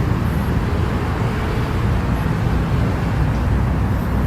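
Steady low rumble of outdoor background noise, loudest in the bass and unbroken, with no clear event standing out.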